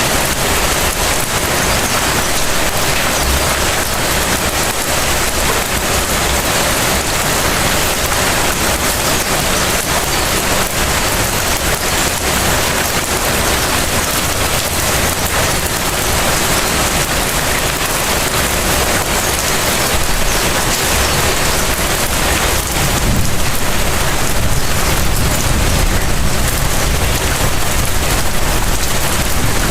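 Steady light rain falling and pattering on surfaces. About two-thirds of the way through, a low rumble joins it and the sound grows a little louder.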